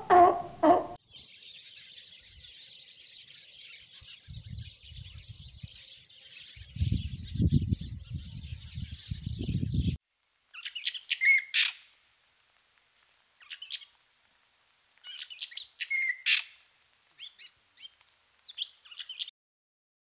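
Birds chirping and calling in short clustered bursts in the second half. Before that, the tail of a seal's low call in the first second, then a steady high hiss with low rumbles.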